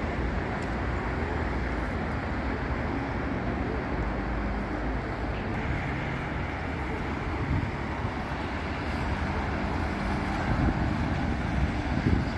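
Continuous road traffic on a busy city avenue: vehicle engines and tyre noise blend into a steady roar, with a louder vehicle rumbling past near the end.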